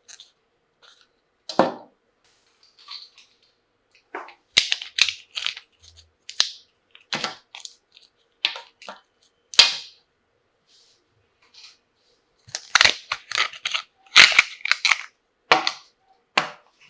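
Toy tea cups and tea-set pieces clacking and knocking together as they are handled: a string of irregular sharp clicks and knocks, some in quick clusters, with short pauses between.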